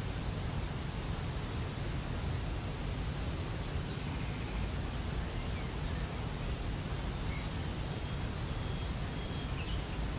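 Waterfall water rushing steadily, with a bird's short high chirps repeated faintly every half second or so over it.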